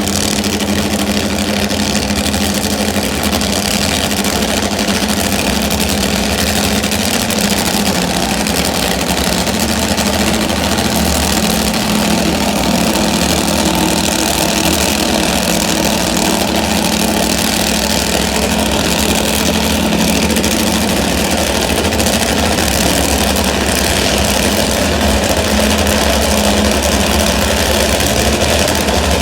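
Top fuel drag-racing motorcycle engine idling steadily, with an even, unchanging low pitch and no revving.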